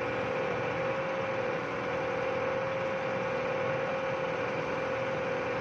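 Fiat-Hitachi excavator running steadily at idle, with a steady whining tone held over the engine noise, which the owner takes as a sign that something is wrong with the machine.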